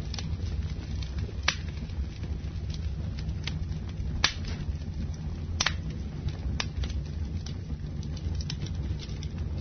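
Campfire burning: a steady low rumble of the flames with scattered sharp crackles and pops, a few louder snaps about one and a half, four and five and a half seconds in.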